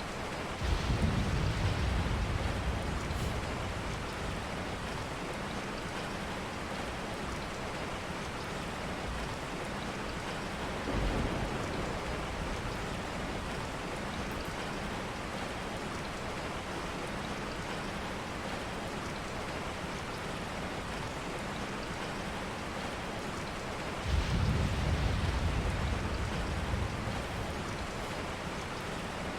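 Steady rain, with low rolls of thunder: a longer one about a second in, a short one near the middle and another long one near the end.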